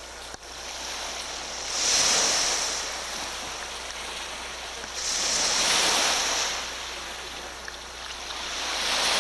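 Waves washing in on the shore, a hiss of water that swells up three times, about three seconds apart.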